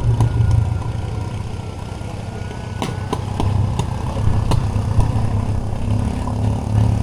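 Motorbike engine running, a steady low rumble.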